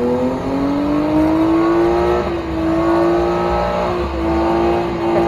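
A car engine held at high revs. Its pitch climbs over the first second or two, then stays steady.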